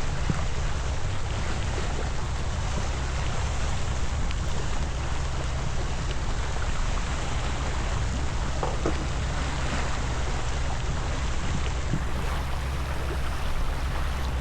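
Steady rush of wind on the microphone and water washing along the hull of a Beneteau First 305 sailboat under sail.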